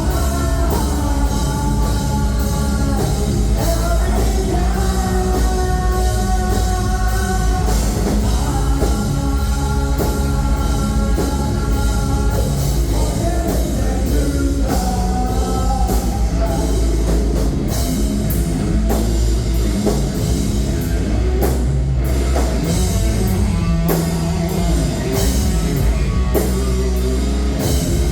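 Live heavy rock band playing loudly: a pounding drum kit, heavy bass and electric guitars, with held sung or lead notes through the first half.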